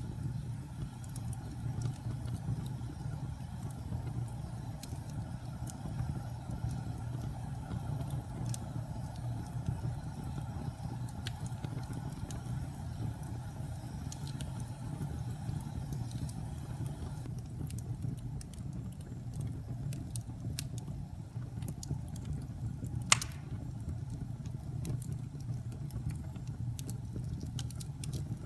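Wood fire burning in a fireplace: a steady low roar of flames with scattered small crackles and one sharp pop late on.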